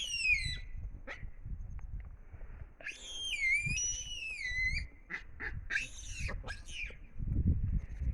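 High-pitched whistled animal calls: a short falling call at the start, a long wavering call about three seconds in, and a few short calls around six seconds.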